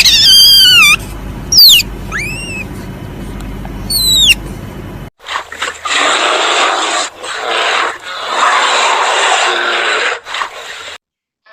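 Animal calls: first several loud, high squealing calls that glide in pitch, then after an abrupt cut a long, harsh, hissing call broken by a few short pauses.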